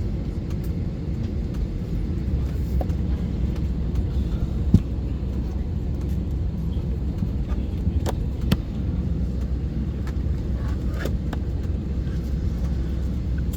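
Steady low cabin rumble inside a parked Airbus A320, with a few light clicks and knocks now and then.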